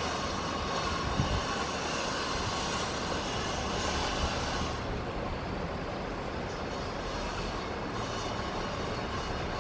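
Jet engines of a Boeing 737-900ER, CFM56-7B turbofans, heard from a distance as a steady rushing noise with a faint high whine.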